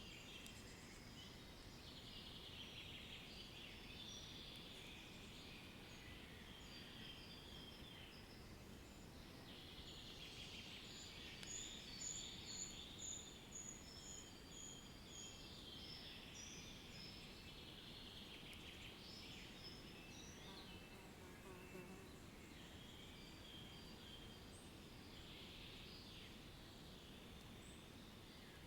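Faint ambience of several songbirds chirping and trilling over a steady low background rumble. About twelve seconds in, one bird gives a quick row of high repeated notes.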